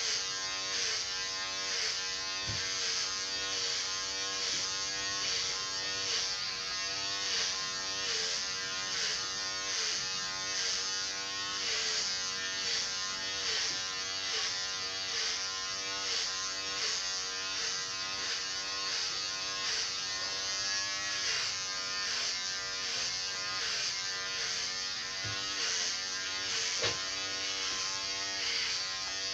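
Electric hair clipper buzzing. Its motor pitch dips and recovers in a steady rhythm a bit more than once a second as the blades load up on strokes through the hair. There is a soft knock about two and a half seconds in and two more near the end.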